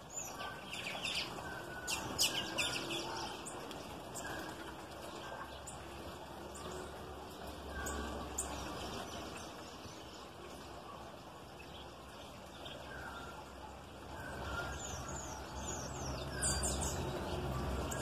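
Small wild birds calling at a garden fruit feeder: clusters of sharp, high chirps about a second in and again near the end, with fainter short whistled notes scattered between, over a low rumble.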